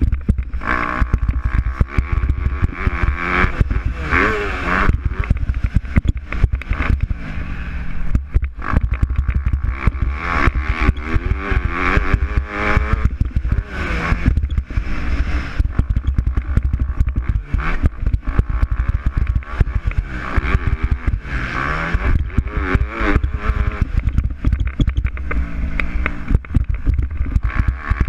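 MX2-class motocross bikes racing, engines revving up and down over and over as riders accelerate and back off, several bikes overlapping.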